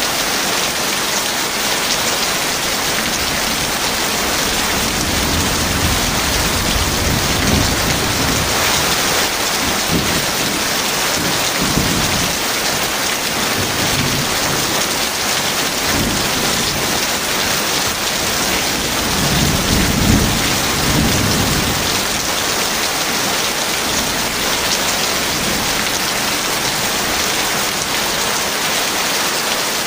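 Heavy rain falling in a steady hiss, with several low rolls of thunder under it, the strongest about twenty seconds in.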